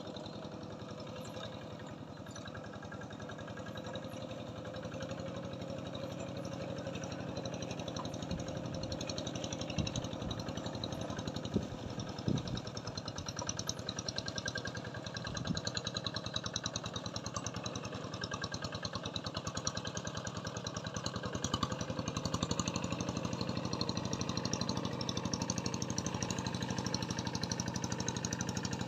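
A small engine running steadily at an even speed, with a few low thumps about ten to fifteen seconds in.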